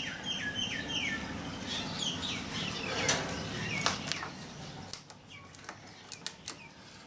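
Birds calling with short whistled notes that fall in pitch, several in quick succession over the first few seconds, then a scatter of sharp clicks and taps in the second half.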